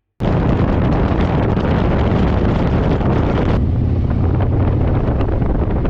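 Wind rushing and buffeting over the microphone of a moving motorcycle, with a steady low rumble underneath. It starts abruptly just after the beginning, and the hiss thins out about three and a half seconds in.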